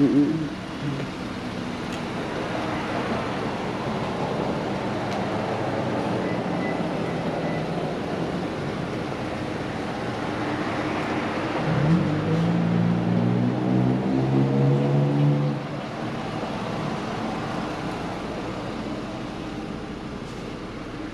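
Car engine running over steady road noise, with a brief rev at the very start. About twelve seconds in it grows louder and rises in pitch, holding for about three and a half seconds before dropping away.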